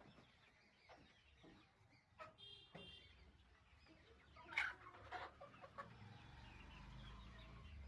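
Desi chicken clucking faintly: a few short clucks about halfway through, otherwise near silence with a low hum.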